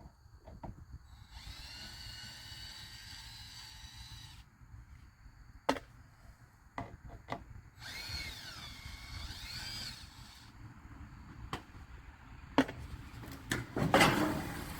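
Cordless drill whining twice, a few seconds each, the second time with its pitch rising and falling, backing screws out of sheet tin. Sharp knocks and clanks in between, the loudest near the end.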